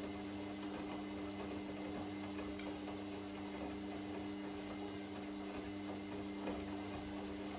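Washing machine running with a steady motor hum over the churning of the drum, with a few faint clicks.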